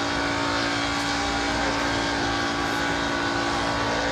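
A 2015 Ford Mustang's 5.0L V8 is held at steady high revs during a line-lock burnout. The line lock holds the front brakes while the rear tyres spin in place, and the engine note stays at one pitch throughout.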